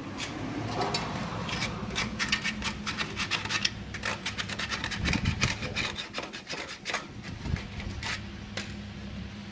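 Quick, irregular scraping or rasping strokes, many in a row, thinning out in the second half, over a steady low hum.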